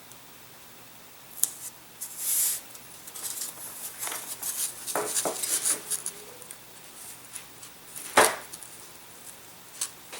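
Blenderm hinge tape being pulled, torn and pressed onto a balsa wing and aileron: short crackly rustles with a few sharp clicks on the bench, the loudest a little after eight seconds in.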